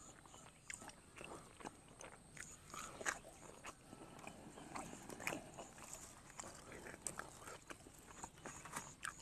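Faint chewing and mouth sounds of a person eating a mouthful of sticky rice and curry, with scattered small clicks and crackles.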